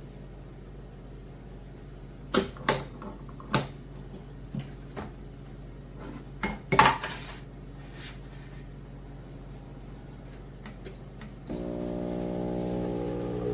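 Several sharp clinks and clacks of hard parts being handled on an espresso machine. Then, near the end, a steady buzzing hum starts abruptly, typical of the machine's pump starting up.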